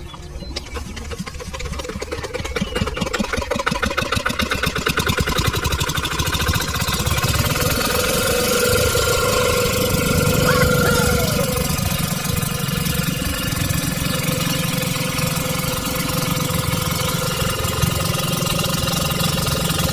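Small motor of a DIY miniature tractor running with a rapid, even pulse, growing louder over the first few seconds and then holding steady.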